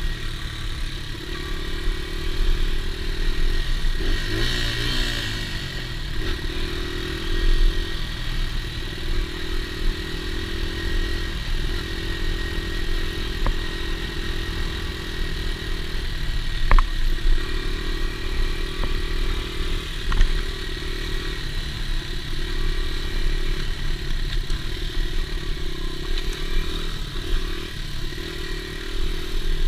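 Dirt bike engine running under riding load, its note rising and falling every second or two as the throttle opens and closes, with a few sharp knocks around the middle.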